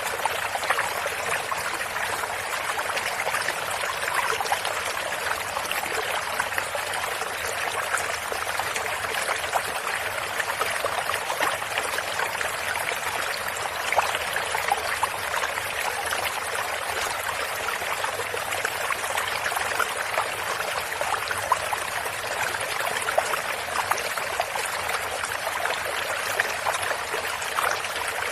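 Running water of a small stream, trickling and splashing steadily, with many small splashes.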